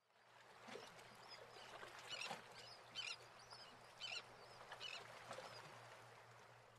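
Near silence with a faint low hum and a few faint short bird-like chirps, roughly one a second.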